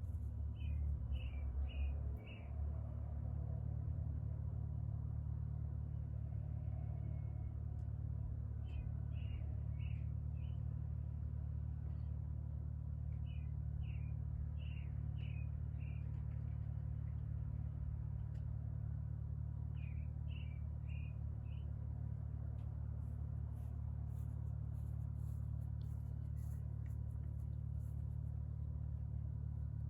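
A bird chirping in short runs of four or five quick notes, every few seconds, over a steady low rumble.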